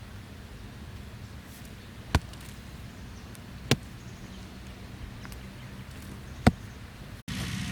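Three sharp chopping strikes, spaced a second and a half to three seconds apart, over a steady low background hum.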